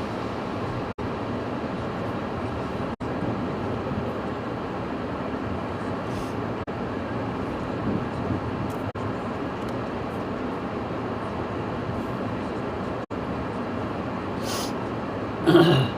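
Steady rushing noise of storm wind and heavy rain on a phone microphone, broken by several split-second dropouts in the audio.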